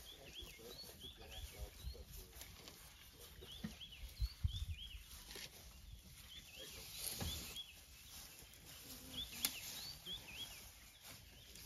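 A bird calling over and over in short, swooping whistles, with brief low rustling and thumps about four to five and seven seconds in.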